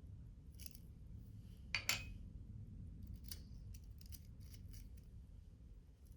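Scissors cutting paper or card: a sharp double snip about two seconds in, then a run of quieter short clicks.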